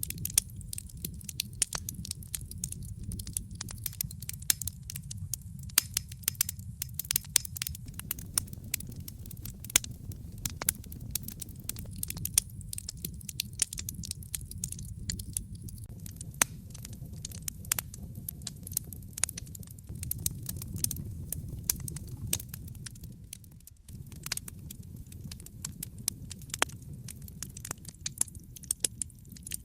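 Wood fire in a fireplace crackling, with many sharp, irregular pops and snaps over a low, steady rumble of flames.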